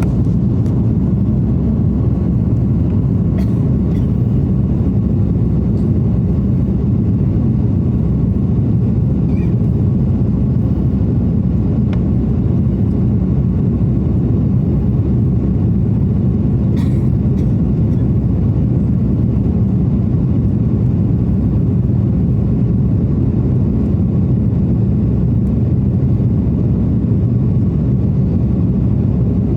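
Steady low rumble of engines and airflow inside an airliner's cabin in flight, with a few faint clicks.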